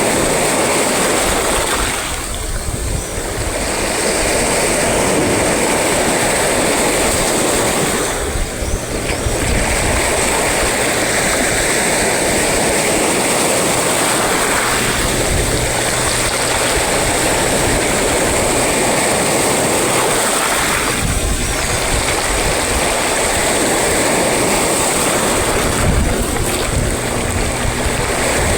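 Rough sea surf washing and breaking in a loud, continuous roar, with wind buffeting the microphone in a low rumble. Brief lulls come about two, eight and twenty-one seconds in.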